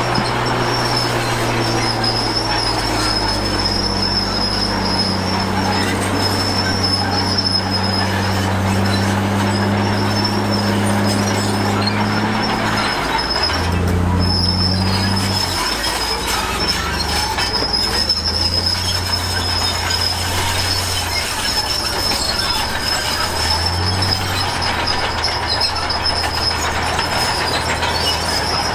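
Komatsu D53P crawler bulldozer working, its diesel engine running with the note shifting a few times, and its steel tracks giving off a steady high squeal.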